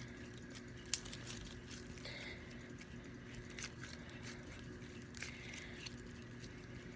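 Faint handling noises as sticky homemade slime and its container are handled: a few small clicks and taps, the sharpest about a second in, over a steady low hum.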